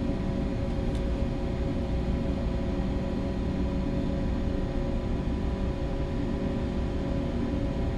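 Steady drone of a bulk carrier's machinery heard on board: a deep rumble with a constant hum.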